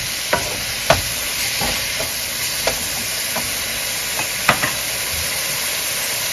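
Chopped cabbage and diced ham sizzling steadily in a hot nonstick pan, with a few sharp knocks and scrapes of a wooden spoon against the pan as it is stirred.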